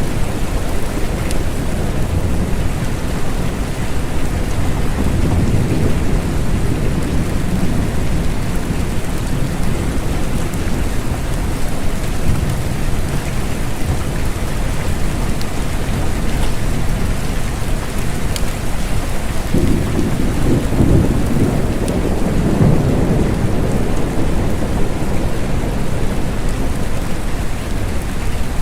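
Steady rain. A low rumble swells up about five seconds in, and a stronger one comes in suddenly around twenty seconds in.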